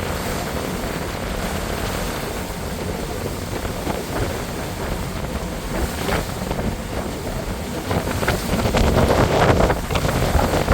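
Wind buffeting the microphone over the low rumble of a sightseeing boat under way, with water rushing past the hull. The wind noise grows louder with crackling gusts toward the end.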